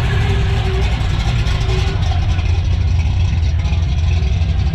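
Car engine idling with a steady low rumble, with faint voices in the background.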